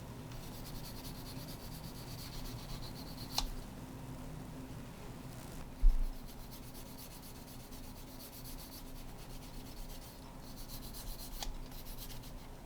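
Repeated rubbing, scraping strokes of an abrasive working small brass parts. There are two sharp ticks, and a short low thump about six seconds in, over a steady low hum.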